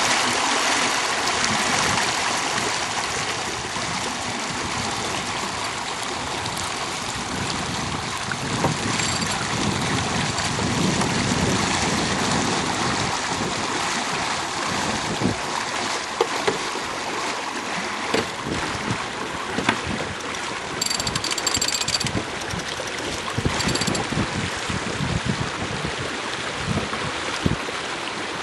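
Water rushing and splashing along a sailing boat's hull under way, with wind on the microphone and occasional sharp knocks.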